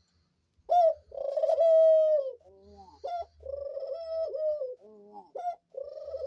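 Dove cooing: three long, low coos in a row, each opening with a short note and ending in a falling tail.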